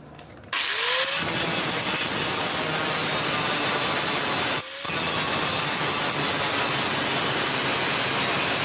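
Stick (arc) welding with an E6013 electrode: the arc strikes about half a second in and runs with a steady, dense crackling hiss, breaks off for a moment a little past halfway, then is struck again and keeps burning.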